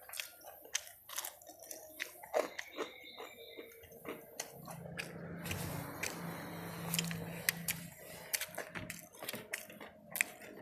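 Close-up chewing and biting, with irregular crisp crunches, of someone eating crispy-coated fried chicken (ayam geprek) with rice.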